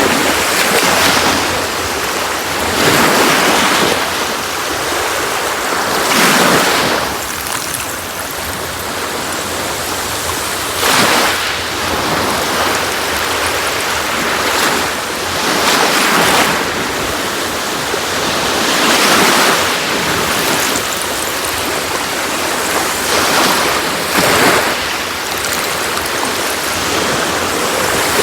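Sea waves breaking on a beach: a steady wash of surf with a wave breaking every few seconds, each one swelling and fading.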